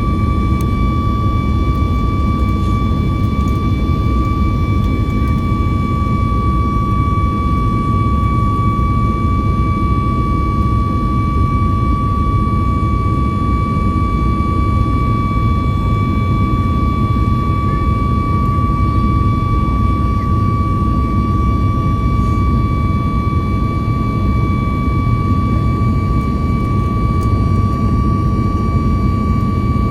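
Jet airliner engines heard inside the passenger cabin: a steady, loud low rumble with a constant high whine over it.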